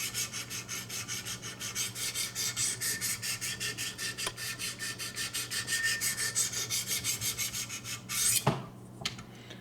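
A 400-grit diamond sharpening stone scraping up and down a VG-10 steel knife edge in rapid, even, light strokes, about seven a second. The strokes stop about eight seconds in, followed by a single hard clack.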